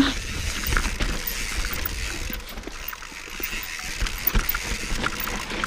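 Mountain bike rolling down a steep dirt trail: a steady rush of tyre noise with scattered clicks and knocks of the chain and frame rattling over rough ground.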